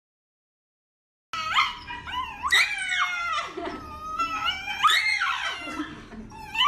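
A dog making a run of high calls that glide up and down in pitch, starting after about a second of silence.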